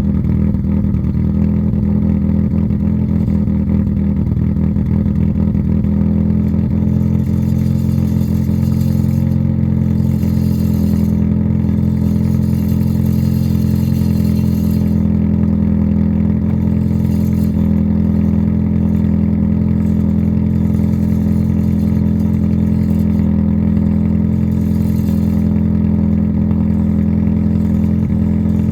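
Honda SOHC D16 four-cylinder engine idling steadily after a cold start, with an even, unchanging pitch.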